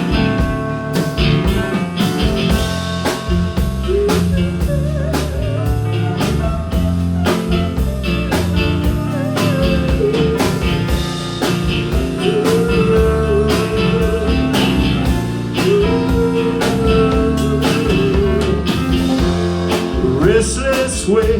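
Live band playing a blues-rock instrumental passage: drum kit keeping a steady beat under bass and guitar, with a lead melody line that bends and wavers in pitch.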